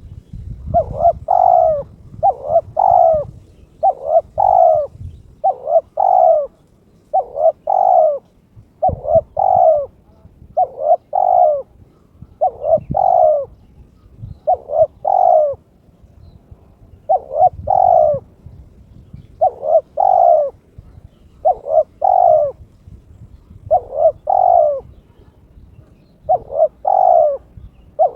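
Spotted dove (tekukur) cooing: short paired notes repeated steadily, about one phrase every two seconds. It is a male in breeding mood calling, which the owner takes for a challenge to a rival.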